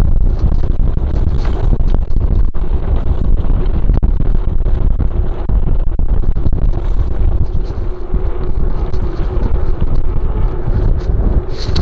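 Heavy wind buffeting the microphone of a camera riding on a fast-descending mountain bike, a loud, steady rumble, with scattered clicks and rattles from the bike over the trail.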